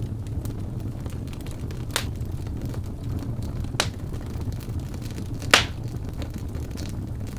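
Wood logs burning in a fireplace: a steady low rumble of the flames with sharp pops and crackles every second or two, the loudest about five and a half seconds in.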